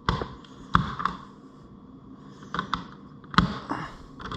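A wall thermostat being handled and its buttons pressed: irregular sharp clicks and taps, about eight in four seconds.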